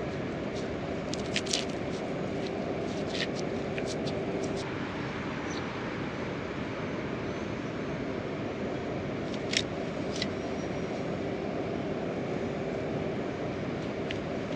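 Steady rain falling, an even hiss with a few sharp ticks of single drops scattered through it.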